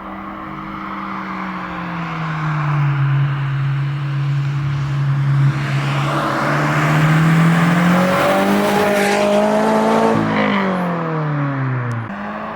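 2022 Toyota GR86's 2.4-litre flat-four through a Borla S-Type exhaust, running steadily, then rising in pitch and getting louder as it accelerates from about six seconds in. About ten seconds in the pitch falls away quickly as the revs drop.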